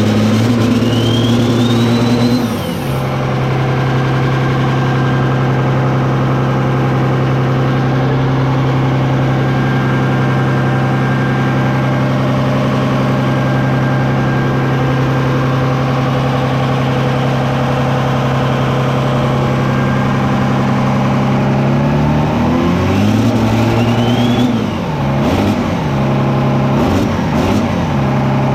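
Cummins 12-valve inline-six diesel with compound turbos running: held at higher revs with a rising turbo whistle, it drops back to a steady idle after about two and a half seconds. Near the end it is revved several times, the pitch rising and falling, with the turbo whistle climbing again.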